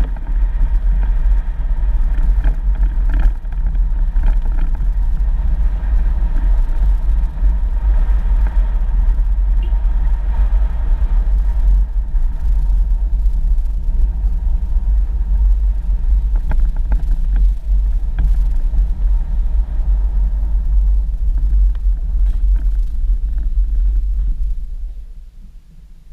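A 4x4 vehicle driving on a dirt road: a steady low rumble of engine and tyres, with a few light knocks, fading out near the end.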